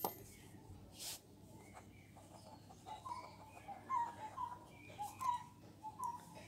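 A bird calling faintly, short chirps repeating about twice a second from about three seconds in. A brief rustle about a second in.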